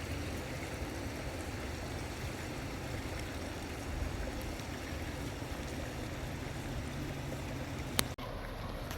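Steady rushing of a flooded river, with a single sharp click near the end.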